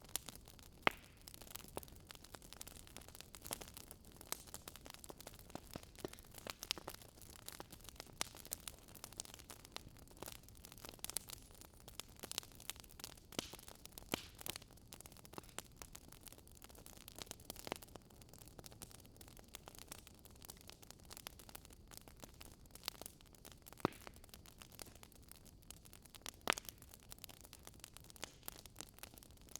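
Fireplace fire crackling: irregular small pops and snaps over a faint steady hiss.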